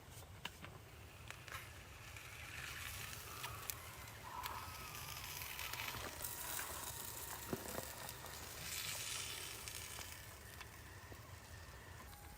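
Faint crackling and hissing of a wood cooking fire, with scattered small clicks.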